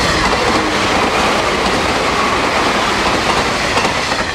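JR West 381 series limited-express electric train passing through the station at speed without stopping: a loud, steady rush of wheel and rail noise that begins to ease near the end as the last cars go by.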